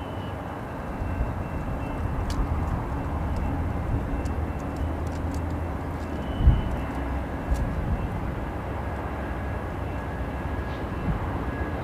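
Approaching passenger train hauled by a GE P42DC diesel locomotive: a steady low rumble of engine and wheels that swells a little in the first couple of seconds, with one low thump about six and a half seconds in.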